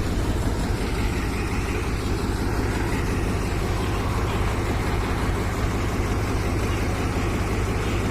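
Tractor's diesel engine running steadily, a low, even rapid beat with no change in speed.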